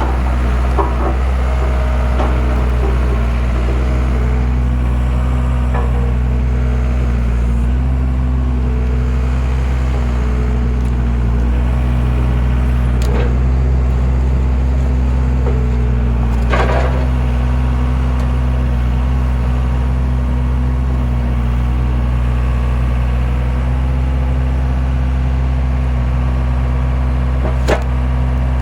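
Skid steer engine running steadily under a homemade hydraulic log splitter, with a few sharp cracks and knocks scattered through, the strongest about sixteen seconds in.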